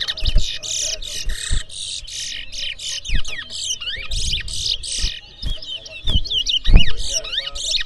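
Towa-towa finches singing hard against each other in a song race: fast, rising and falling whistled notes and chips come one after another. A few low thumps sound under the song.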